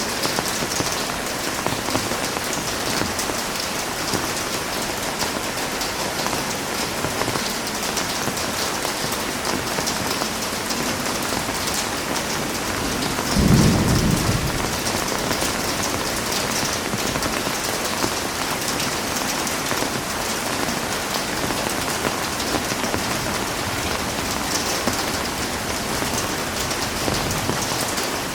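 Heavy rain falling steadily. About halfway through comes one brief, low rumble of thunder.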